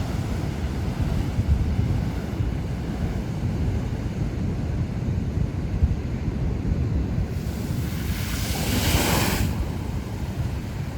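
Heavy ocean surf with wind buffeting the microphone as a steady low rumble. About seven and a half seconds in, a loud rushing hiss of breaking, washing water rises and lasts about two seconds.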